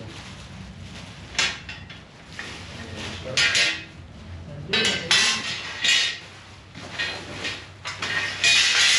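A series of irregular metal clinks and rattles, about five in all with the loudest near the end: tools and hardware being handled and set down.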